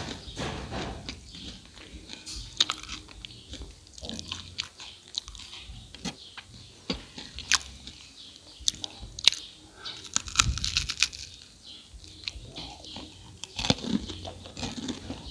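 Close-up chewing of fried crispy rice cakes: sharp crackling crunches throughout, with a louder run of crunching about ten seconds in.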